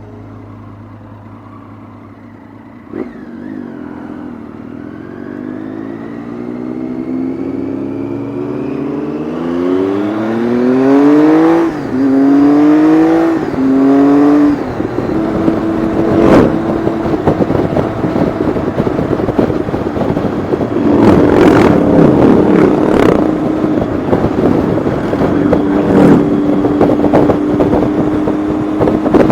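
Motorcycle engine at low revs, then accelerating from about three seconds in, its note climbing steadily and then rising and dropping through several quick upshifts around twelve to fifteen seconds. It then holds a steady cruising note under gusting wind noise on the microphone.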